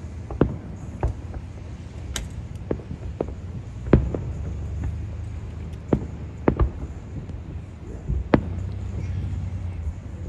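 Fireworks display heard from a distance: a series of irregular booms, about a dozen in ten seconds, over a low rumble. The loudest bangs come about four seconds and eight seconds in.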